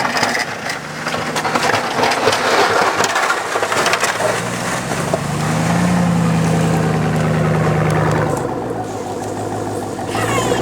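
Chevy Z71 4x4 pickup plowing snow: the plow blade scraping and crunching through snow over the running engine, then a steady, louder engine note for about three seconds in the middle as the truck pushes.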